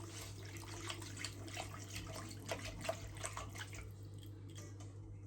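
Faint dripping and small splashes of a liquid bread-dough mixture of yeast, milk, water, sugar and olive oil in a mixing bowl, as a series of small irregular ticks. A steady low hum runs underneath.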